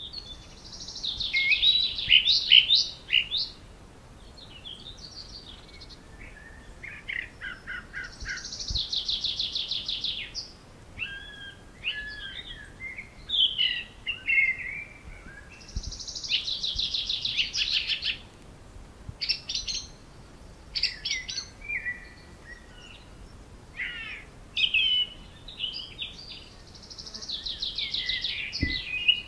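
Songbirds singing: loud phrases of fast, high trills come back every several seconds, with shorter chirps and whistled notes in between.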